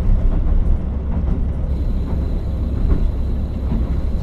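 KiHa 40 diesel railcar running on the line: a steady low rumble of engine and wheels on rail, with faint scattered ticks. A thin high whine comes in a little before halfway and holds.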